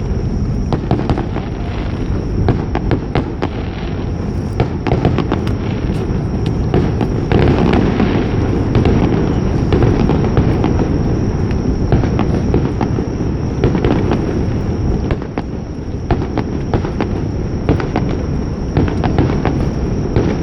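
Aerial fireworks going off in a dense, continuous barrage: a constant rumble of booms overlaid with many sharp crackling pops. It is heaviest around the middle and eases off briefly later on.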